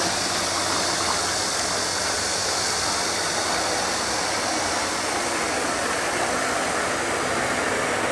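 Manure dewatering equipment running: a steady electric-motor hum under an even rushing noise like flowing slurry, as the submerged pump feeds manure into the screw-press separator.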